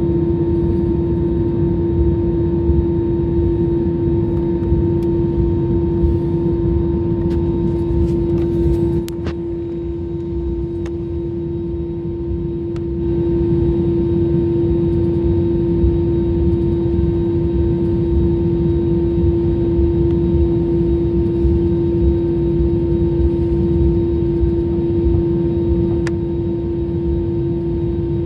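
Airliner cabin noise from the jet engines running: a steady drone with one strong, even hum. A few light clicks come about 8 seconds in, and the level dips briefly a few seconds later.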